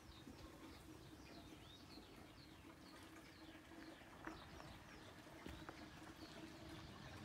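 Faint songbird chirping outdoors: short curved chirps repeated about twice a second, over a faint steady low hum, with a couple of soft clicks near the middle.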